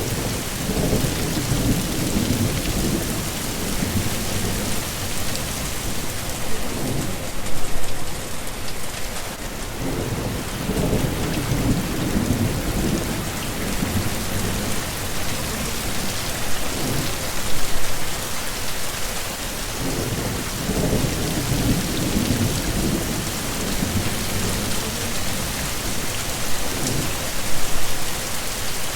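Heavy rain falling steadily, with low rumbles of thunder that swell and fade several times, roughly every ten seconds.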